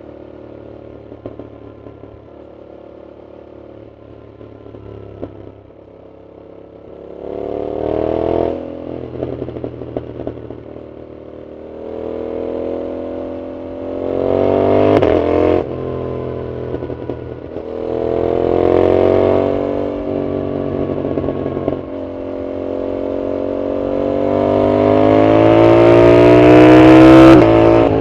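Yamaha MT-07's CP2 parallel-twin engine with a loud aftermarket full exhaust, ridden at low revs with scattered sharp pops at first. It then pulls through several accelerations, the engine note rising and dropping off suddenly at each gear change or throttle close. The longest and loudest pull comes near the end.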